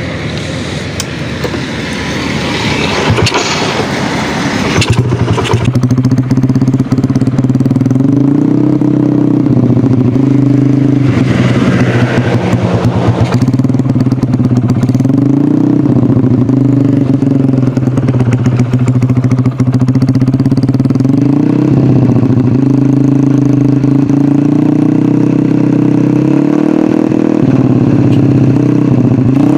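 Motorcycle fitted with an aftermarket DYN racing exhaust running. The engine comes up over the first few seconds and settles into a steady idle about five seconds in, with a few light throttle blips, one stronger one around the middle.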